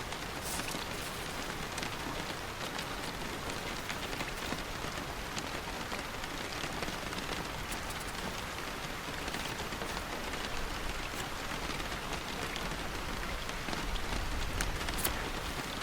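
Steady rain falling on a surface, an even hiss with scattered drop ticks throughout and a slight swell near the end.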